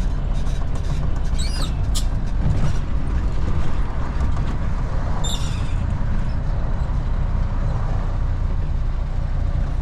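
Truck engine and road noise heard inside the cab while driving: a steady low drone. Two brief high squeaks come about a second and a half in and about five seconds in, with a sharp click just after the first.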